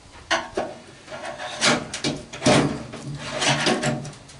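Sheet-metal parts of an old microwave scraping, sliding and knocking as it is taken apart by hand, with several sharp clicks and a grinding scrape in the middle.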